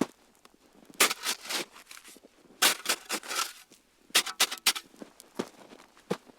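Wood campfire crackling and popping: clusters of sharp snaps about one, three and four seconds in, with single pops between them.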